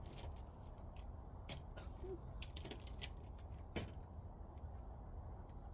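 Irregular light clicks and taps, about a dozen, the loudest a little under four seconds in, over a steady low rumble: handling of parts while the roof cover is fitted back onto a heat pump.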